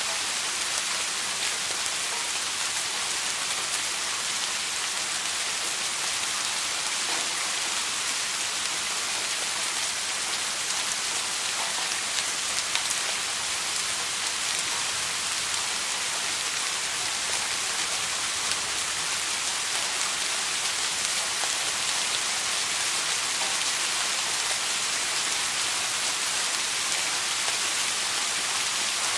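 Steady rain falling, an even hiss of many drops with no breaks or thunder.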